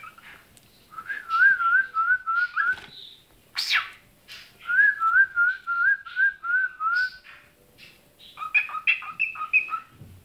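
Cockatiel whistling: two runs of quick warbling notes with a single fast whistled sweep between them, then a string of short two-pitched chirps near the end.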